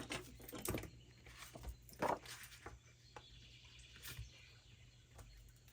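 Faint, scattered taps, clicks and rustles of paper and craft tools being handled on a work table, with one louder tap about two seconds in.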